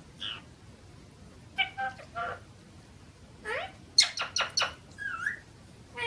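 Pet parrot calling in a string of short squawks and whistles, with a quick run of sharp calls about four seconds in and a whistle that dips and rises near the end.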